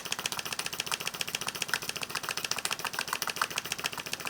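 Tiny governor-controlled model steam engine running with a fast, even ticking beat. It is running on steam at only about 1 psi, so low that the gauge barely reads.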